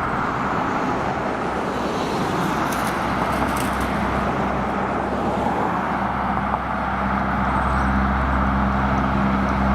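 Road traffic going past with tyre and road noise, then a heavy truck's diesel engine hum building about two-thirds of the way through as it comes closer.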